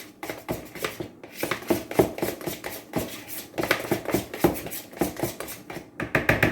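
Pancake batter being stirred in a bowl: a quick, rhythmic run of utensil clicks and scrapes, about six to eight a second, speeding up near the end.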